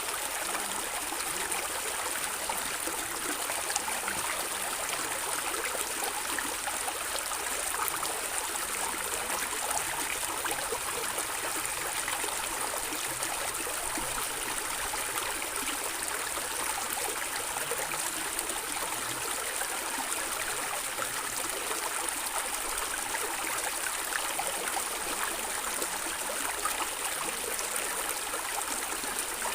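Running water of a small stream gurgling and trickling steadily.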